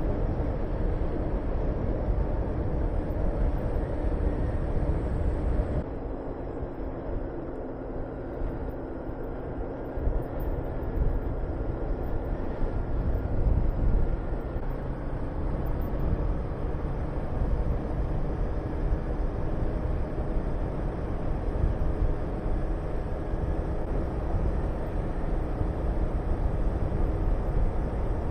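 Honda VTR250's V-twin engine running while the motorcycle is ridden, mixed with wind rushing over the microphone. About six seconds in the low rumble and wind drop for a few seconds, then pick up again.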